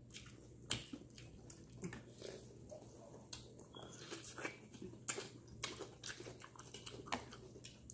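Close-up chewing and biting of fried frog legs coated in crushed Hot Cheetos, a string of irregular sharp crunches.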